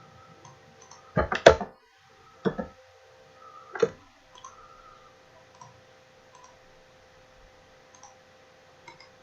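Computer mouse clicking: a quick cluster of sharp clicks about a second in, single clicks at about two and a half and four seconds, then only faint ticks.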